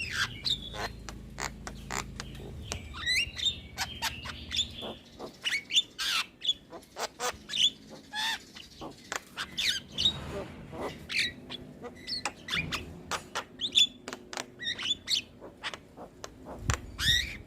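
Javan myna (jalak kebo) calling: an irregular run of sharp clicks and chips mixed with short whistled notes that glide up and down.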